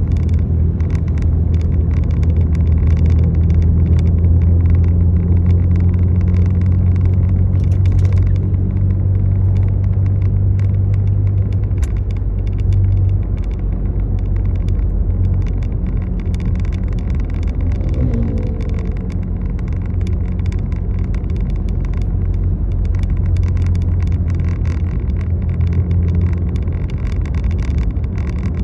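A road vehicle running, with a steady low rumble and many faint high ticks throughout. A brief rising whine comes about 18 seconds in.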